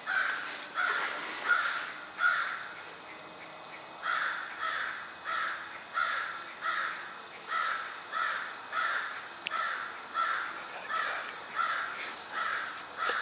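A bird calling over and over with short harsh calls: a few calls, a pause of about a second and a half, then a long steady series of about three calls every two seconds.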